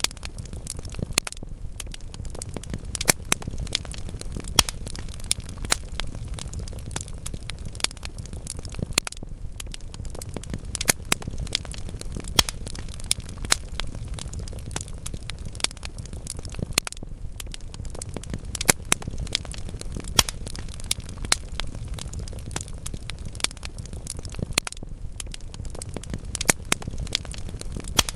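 Wood fire crackling in a fireplace: a steady low rumble of burning logs under frequent, irregular sharp pops and snaps.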